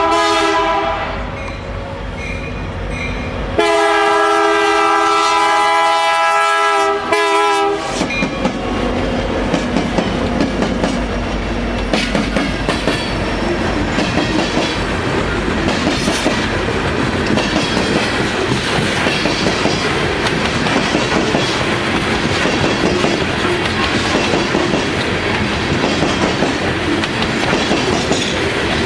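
Diesel locomotive horn on a loaded BNSF coal train: one blast ends about a second in, then a long blast of about four seconds follows. The locomotives then pass, and loaded coal hopper cars roll by with a steady clickety-clack of wheels over the rail joints.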